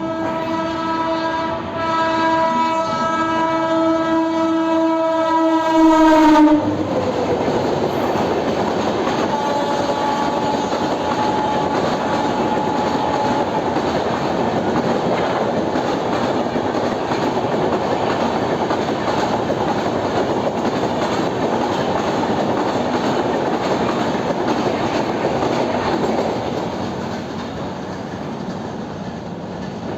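An Indian Railways train's horn, held for about six seconds, its pitch falling as it ends. Then the steady rush and wheel clatter of the train running by, easing off near the end.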